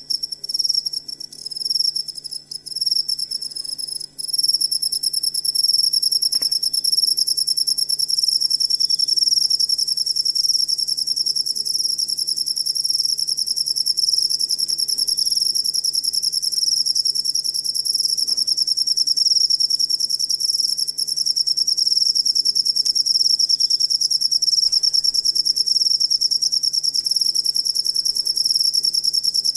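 A cricket chirping loudly: a high, rapidly pulsing trill, broken into short bursts for the first few seconds and then unbroken.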